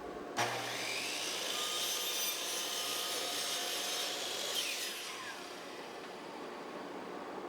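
Electric miter saw starting up with a rising whine and cutting through cedar, then released and spinning down with a falling whine about five seconds in.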